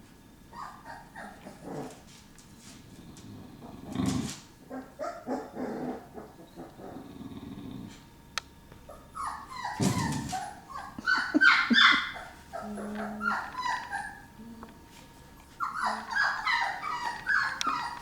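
Dogs yipping, whimpering and growling in short repeated bursts, loudest in a flurry a little past the middle and again near the end. Two dull thumps come in between, one about four seconds in and one about ten seconds in.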